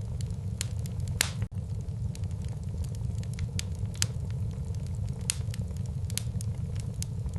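Wood fire burning in a fireplace: irregular sharp crackles and pops over a steady low rumble of the flames, with the loudest pops about a second in and about four seconds in.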